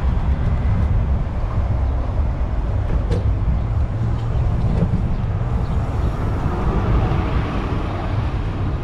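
Steady, uneven rumble of wind buffeting the microphone on a moving bicycle, mixed with road and traffic noise.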